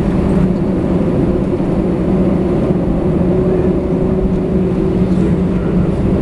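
Airbus A320 jet engines and airflow heard from inside the passenger cabin: a steady, loud drone with a constant low hum.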